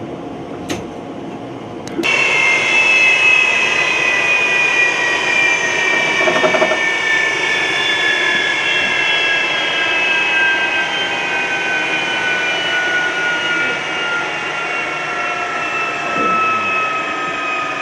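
Jet engine running on a test stand, a loud rushing roar with a high multi-tone whine. The sound cuts in abruptly about two seconds in, and the whine then sinks slowly and steadily in pitch.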